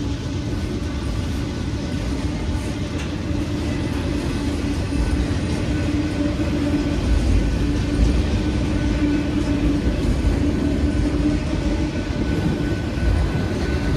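A diesel freight train running past: a steady locomotive engine drone with a low rumble, getting a little louder about halfway through.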